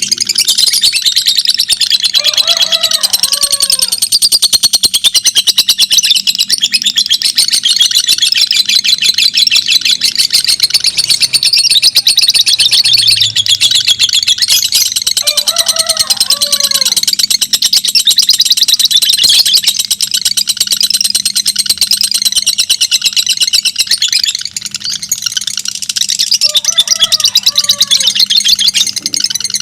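Two lovebirds chattering in long, fast, high-pitched trills, the competitive 'ngekek' song of lovebird fighters. The chatter runs almost unbroken, easing briefly near the end.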